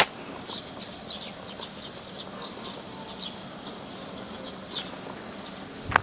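A small bird calling with a run of short, high chirps, about two a second. Footsteps on a paved road, one at the start and another near the end.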